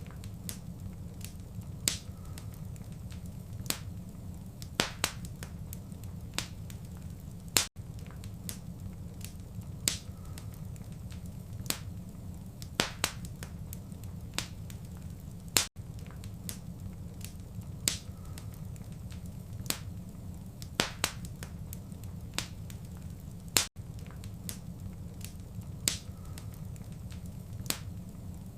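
Wood fire crackling, with frequent sharp snaps and pops over a steady low rumble. The sound drops out for an instant about every eight seconds, where the recorded loop restarts.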